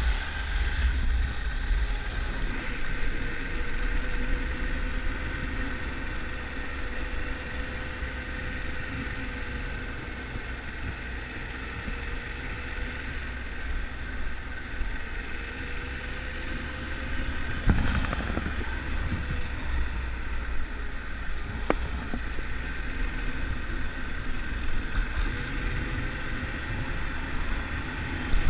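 Triumph Tiger 1200 motorcycle's three-cylinder engine running steadily with a deep rumble, and a single knock about two-thirds of the way through.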